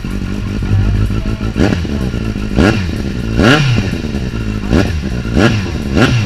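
Kawasaki Z800 inline-four engine idling through a Leovince exhaust and blipped about six times, roughly once a second, each blip rising quickly in pitch and falling back.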